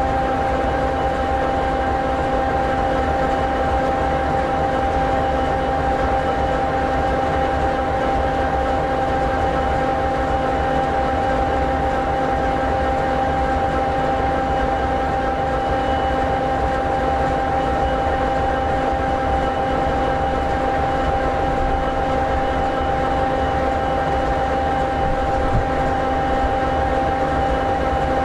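EMD SD60E locomotive's 16-cylinder two-stroke EMD 16-710G3B diesel idling steadily: a constant low rumble with a hum of several steady tones over it.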